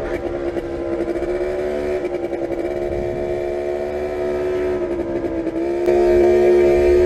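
Motorcycle engine running at a steady, moderate speed. Its pitch dips slightly, then rises and grows louder about six seconds in as the throttle opens.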